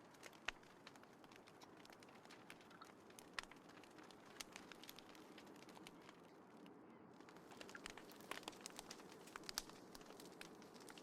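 Small wood fire crackling, with frequent sharp pops and snaps over a faint steady rush of burning flames; the popping gets busier in the second half.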